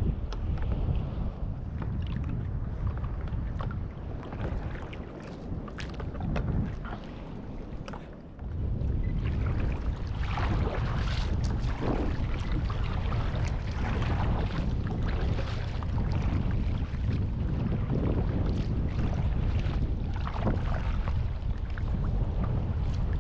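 Wind buffeting the microphone on a kayak at sea, with scattered splashes of water against the hull. The wind eases for a few seconds about five seconds in, then picks up again.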